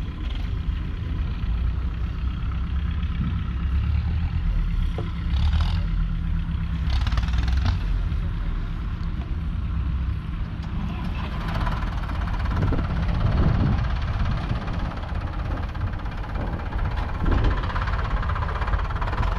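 The 5.7-litre six-cylinder diesel engine of a 1985 Mercedes-Benz Unimog U1000, idling steadily with a deep, even diesel clatter. A few brief, higher noises sound over it partway through.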